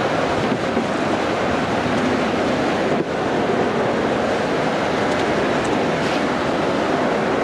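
Steady, loud rushing of wind and road noise from a vehicle driving at speed, with a brief dip about three seconds in.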